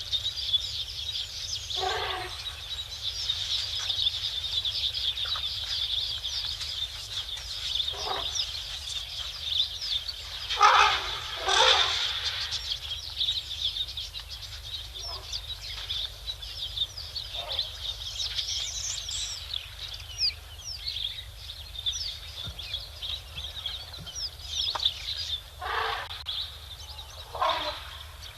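Many small birds chirping continuously, with several louder short calls cutting in at intervals, the loudest pair about halfway through.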